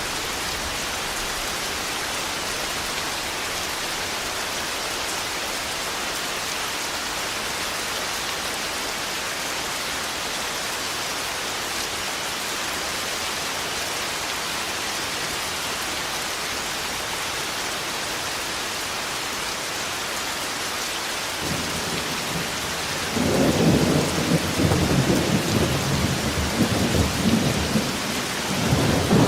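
Steady heavy rain falling, then a thunderclap's rumble builds about three-quarters of the way in and rolls on loudly, rising and falling, to the end.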